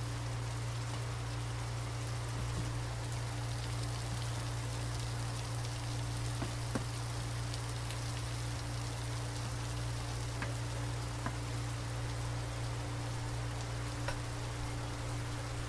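Beef strips and sauce sizzling in a hot non-stick wok with a steady hiss as they are stir-fried, the spatula ticking against the pan a few times. A steady low hum runs underneath.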